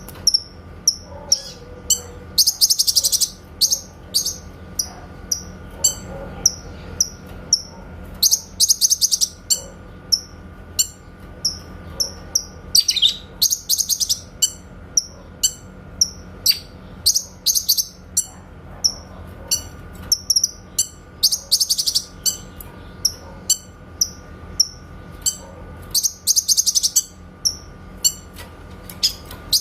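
Cucak kinoy songbird calling: short, sharp, high shot-like notes about once or twice a second, broken every four to five seconds by a loud, fast rattling trill lasting about a second, over a faint steady hum.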